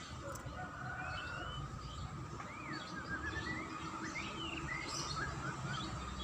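White-rumped shama singing a string of short whistled notes and quick chirps that sweep up and down in pitch, over a steady faint background hum.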